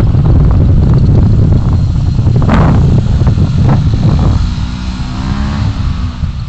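Road and wind rumble of a moving car, heard from its dashcam, with scattered knocks and a brief hiss near the middle. From about two-thirds in, an engine note rises and falls in pitch for about two seconds, then fades.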